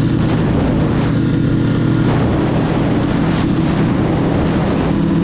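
Motorcycle engine running loud and steady.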